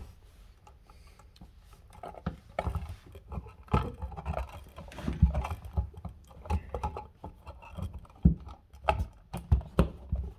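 Irregular clicks, taps and scrapes of pliers working at a crimped grounding clamp on twisted copper ground wires in an electrical box.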